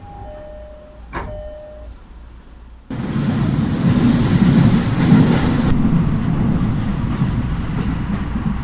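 Train running noise: a quieter stretch with two steady held tones and a click, then about three seconds in a loud, even rumble cuts in abruptly and carries on.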